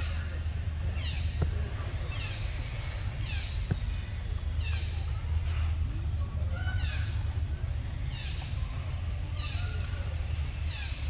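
A bird repeating a short, high chirp that slides downward, about once a second. Behind it are a steady high insect hum and a low rumble.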